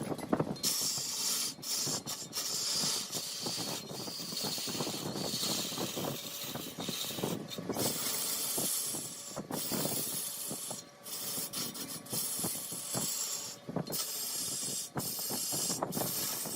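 Wood turning on a large lathe: a steady, grainy hiss and scrape of a cutting tool against the spinning wood, broken by brief gaps every second or two.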